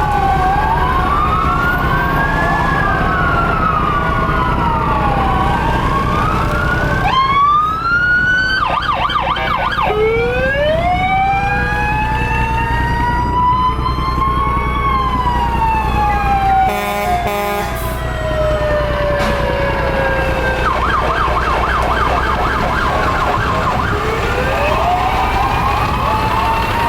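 Several fire truck sirens sounding at once, their wails overlapping as they rise and fall in pitch. Twice they switch to a fast yelp, about eight seconds in and again past twenty seconds, over a steady low rumble of truck engines.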